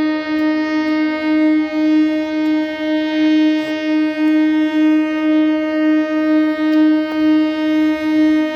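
MEMU local train's horn sounding one long, steady, unbroken note, cutting off near the end.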